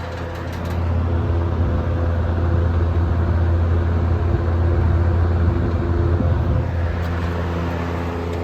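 General Electric W25 five-blade vintage box fan running at full speed: a steady motor hum under the rush of moving air. It gets louder about a second in and eases off a little near the end.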